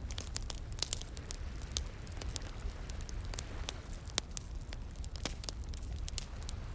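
Wood burning in a campfire, crackling with many sharp, irregular pops, over a low steady rumble.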